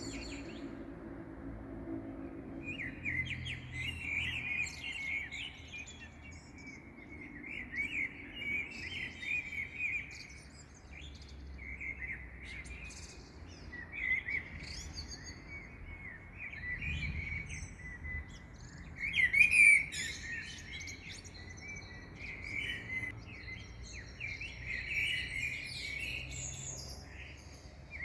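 Dawn chorus of small songbirds: several birds chirping and trilling at once in quick, overlapping phrases, with one louder call about two-thirds of the way through. A faint low rumble sits underneath.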